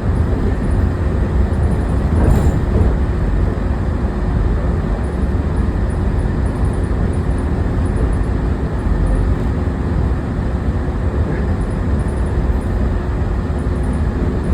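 Walt Disney World monorail running, heard from inside the car: a steady low rumble with a faint constant hum, and no change in pace.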